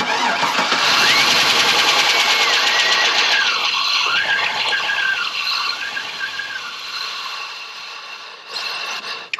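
2001 Chevrolet Silverado engine running, with a fast, even ticking clatter and a wavering squeal over it; the owner puts the tick down to a bad lifter, being treated with Seafoam. The sound is loudest at the start and eases off through the second half.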